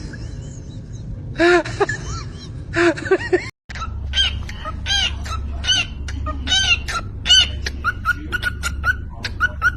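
A bird calling over and over: a few arching calls, a brief dropout, then calls about every second that quicken into a rapid run of short, even notes near the end.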